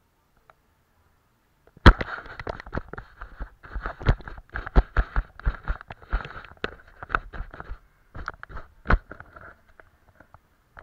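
Close-up handling of painting tools and materials: a quick, irregular run of sharp taps, clicks and scrapes starting about two seconds in, thinning out near the end.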